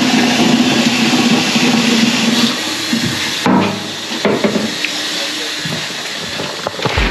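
Water running in a steady stream, with a low hum under it for the first couple of seconds; the flow changes and gets lighter about three and a half seconds in.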